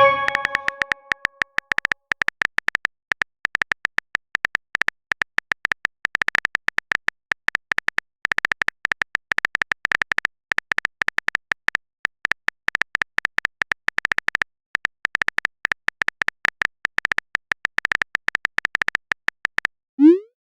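Phone-keyboard typing sound effect: a long run of rapid, uneven clicks. It opens with a short ringing message chime, and a quick rising swoop comes near the end.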